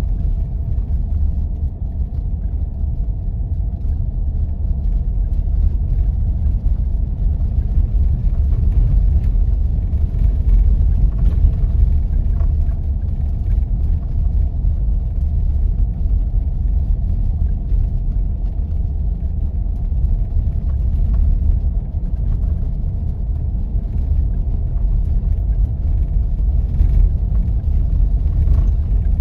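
Jeep driving on snow-covered back roads: a steady low rumble of engine and tyres, with a faint steady hum in it.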